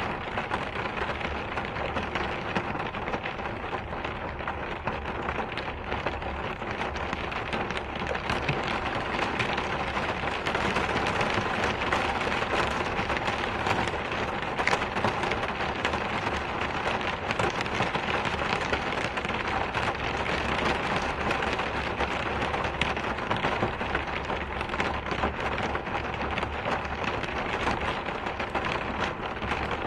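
Steady heavy rain falling, a dense continuous patter of drops that grows slightly louder about ten seconds in.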